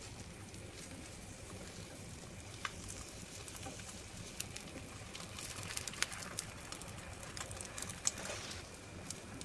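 Egg omelette frying gently in oil in a frying pan: a soft, steady sizzle with scattered sharp crackles. Silicone spatulas scrape lightly against the pan as the omelette is rolled up.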